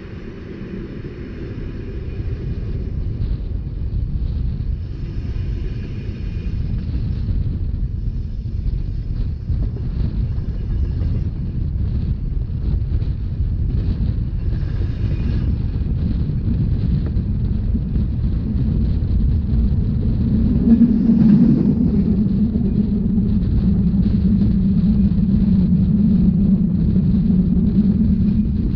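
Rhaetian Railway narrow-gauge passenger train running along the track: a steady low rumble mixed with wind noise, growing louder over the first few seconds. From about twenty seconds in, a steady low hum joins it.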